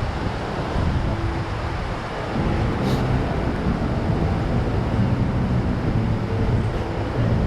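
Wind buffeting the microphone: a heavy, uneven low rumble with a steady rushing hiss over it.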